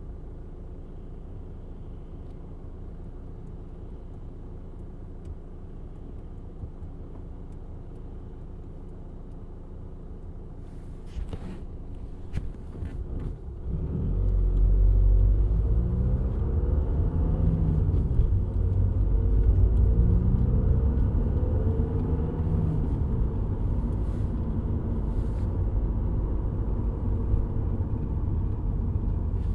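2007 VW Golf GT TDI's 2.0-litre BKD diesel engine, steady and even at first, with a few clicks about 11 to 13 seconds in. From about 14 seconds it gets much louder and its pitch rises and falls as the engine revs.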